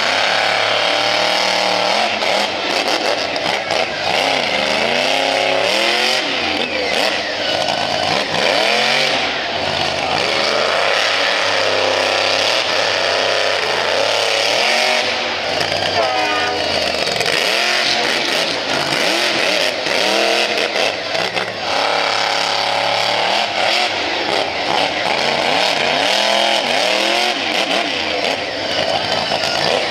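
Monster truck engine revving hard over and over, its pitch surging up and falling back every second or two.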